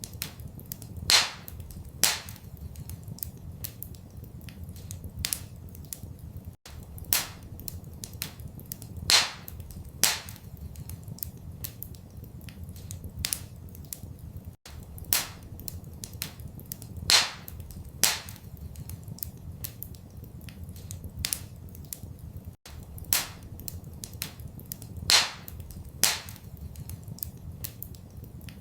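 Wood fire crackling in a fireplace: sharp pops and snaps, a few much louder than the rest, over a steady low rumble. The same pattern of pops repeats about every eight seconds.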